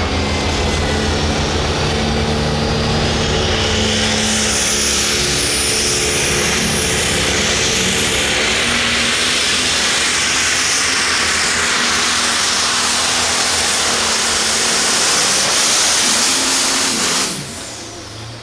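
Turbocharged diesel engine of a light-limited pro stock pulling tractor running at full power down the track, with a high whistle above the engine note. The sound cuts off sharply near the end.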